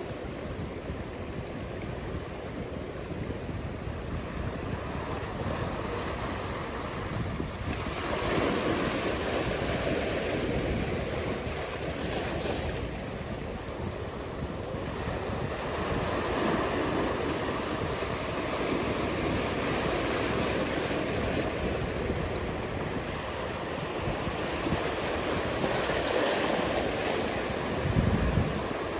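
Ocean surf: waves breaking and washing in, rising in surges several times. Near the end there is a brief low rumble of wind buffeting the microphone.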